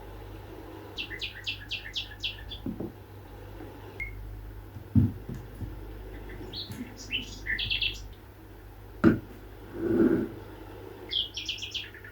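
A small bird chirping in three short bursts of quick, repeated high notes, with a few dull thumps and a brief rustle in between.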